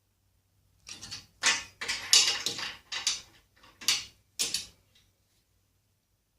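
Hand work on table saw fence hardware: a run of short scraping and clunking sounds, about six in four seconds, starting about a second in.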